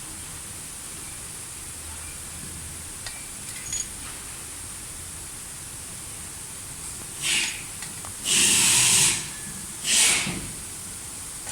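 Steady background hiss, then in the second half four short, loud rasping bursts of noise: one brief, one lasting nearly a second, then two more about a second apart.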